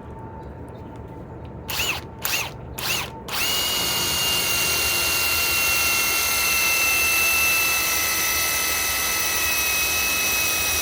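Ryobi PSBIW25 compact cordless impact wrench, first blipped three times with short trigger pulls that spin the motor up and down, then run continuously for about eight seconds with a steady high whine, driving a lag screw into wood on a battery down to its last bar.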